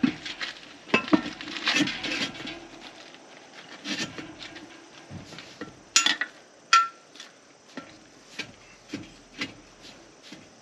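Irregular knocks and metallic clanks from hand work on a steel football tackling sled frame while its pads are being fitted. Loud knocks near the start and about a second in, and a sharp clink about seven seconds in that rings briefly.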